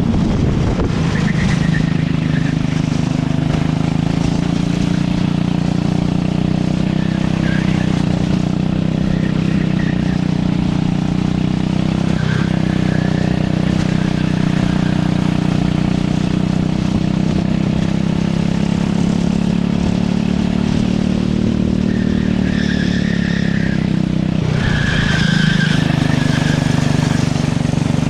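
Go-kart engine running hard under race conditions. Its pitch holds fairly steady, dips briefly about twelve seconds in and again near the end, then climbs back up.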